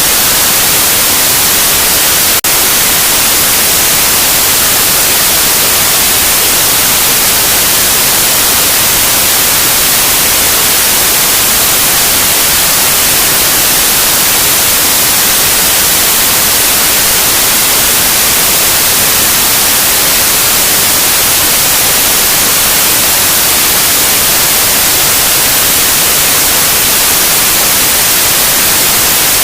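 Loud, steady white noise: an even hiss across the whole range, with one brief click about two seconds in.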